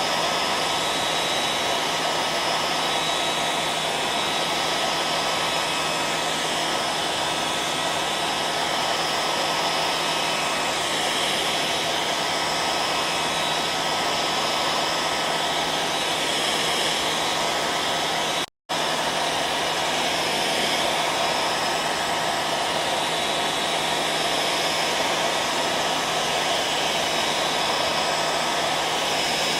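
Hair dryer running steadily: a constant rush of blown air with a faint steady motor hum under it. The sound cuts out for a split second about eighteen seconds in, then carries on unchanged.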